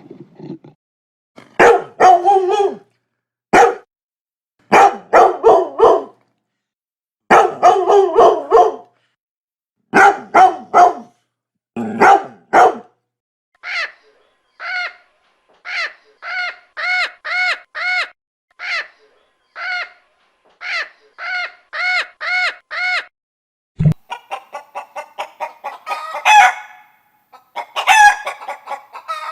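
Chickens clucking in quick groups of short calls, then a long run of short, evenly repeated calls. Near the end the calling turns denser and noisier.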